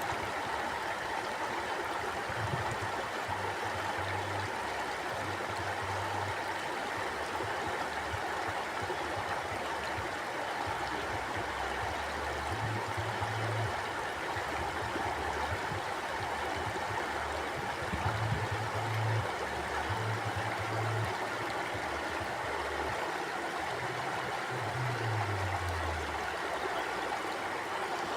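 Mountain stream flowing steadily, an even rush of water with low rumbles coming and going every few seconds beneath it.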